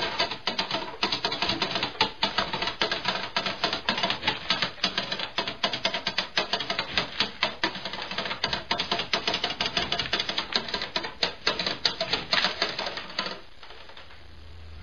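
Rapid, dense clattering clicks that stop abruptly about 13 seconds in.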